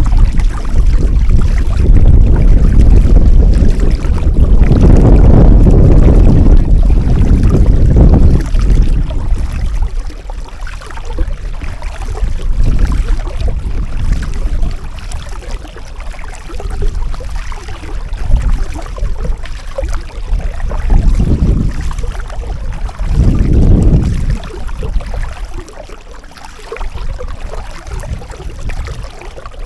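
Wind buffeting the microphone in gusts, a loud low rumble that swells and eases, heaviest over the first several seconds, with shorter gusts later on.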